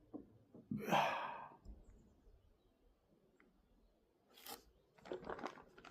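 A person sighing heavily once, about a second in, followed later by a short breathy burst and a cluster of small clicks and rustles near the end.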